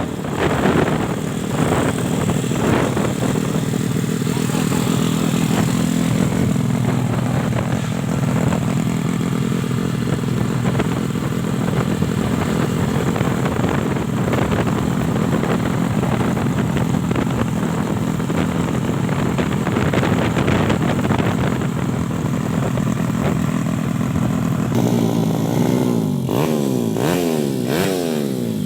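Yamaha Jupiter motorcycle's four-stroke engine running at a steady idle, then revved up and down several times near the end.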